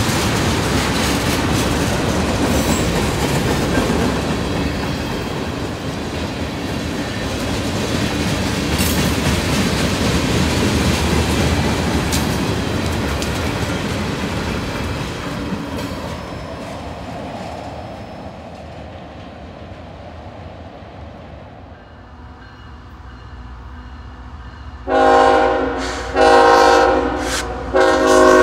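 Freight train cars rolling past with wheel clatter and rumble that gradually fades away. Then an approaching locomotive sounds its air horn, a chord of several tones: two blasts of about a second each, then a third that is still held at the end.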